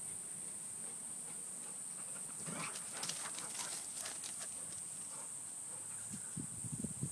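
A steady high insect drone, with a burst of rustling, clicking steps from about two and a half to four and a half seconds in.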